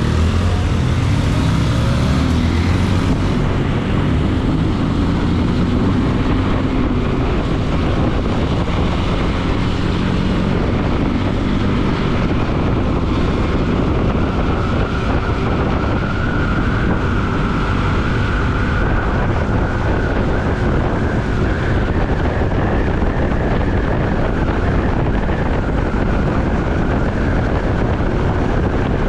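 Motorcycle riding in traffic: the single-cylinder engine of a Bajaj Pulsar NS200 runs, with wind noise over the microphone. The engine pitch rises and falls in the first few seconds, then the sound stays steady.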